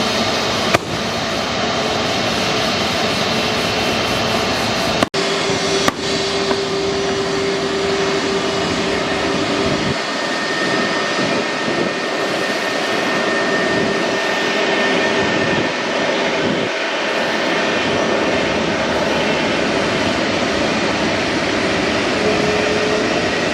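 Jet airliner engines running, a loud steady rushing noise with a thin whine over it, cutting abruptly to a slightly different engine sound a few times.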